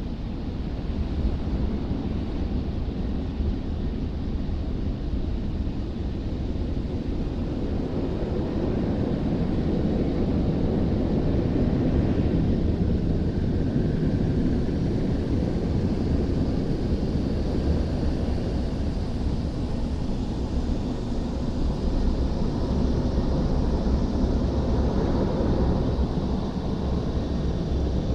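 Tammermatic T700 Lux car wash drying blowers running, heard from inside the car as a steady noise that grows a little louder about a third of the way through.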